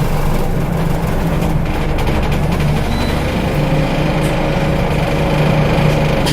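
Scania L94UB bus's diesel engine running under way, heard from inside the bus, with a whine from its ZF automatic gearbox that rises slightly in pitch through the second half.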